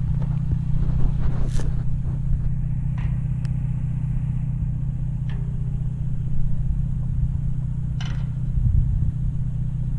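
Vehicle engine running steadily at low revs, with a few light clicks and knocks over it.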